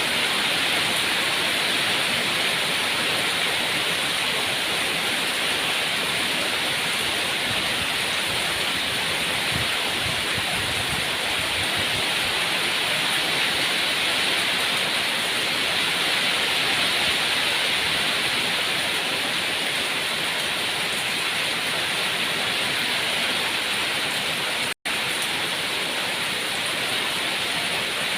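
Steady, heavy rain falling, an even hiss. It cuts out for an instant about three-quarters of the way through, then carries on unchanged.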